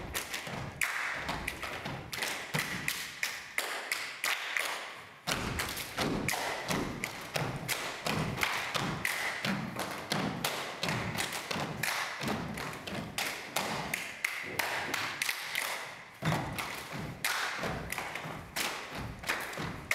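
Many rapid, irregular thumps and taps of dancers' feet on a stage floor, with music faintly underneath.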